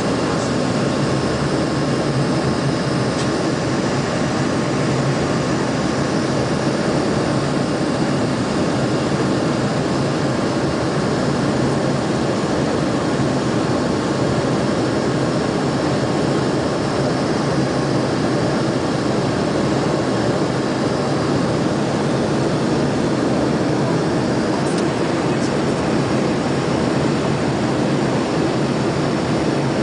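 Steady engine and airflow noise of an aircraft in flight, heard inside the cabin, with a faint steady hum over it.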